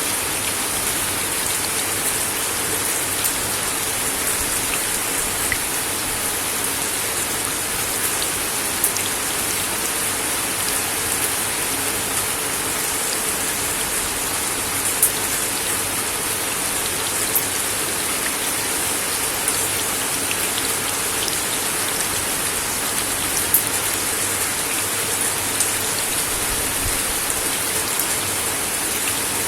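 Steady rain falling on a wooden deck: an even hiss of rainfall with scattered sharper drops ticking on the boards.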